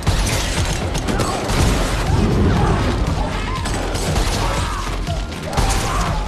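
Film action sound mix: a run of gunshots and clattering weapon mechanisms over loud electronic soundtrack music.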